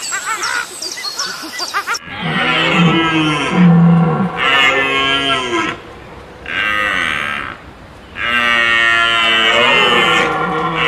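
A large hoofed animal giving long, low, moo-like calls, about five in a row with short gaps, the last the longest. Before them, in the first couple of seconds, come short, high, repeated chirping calls.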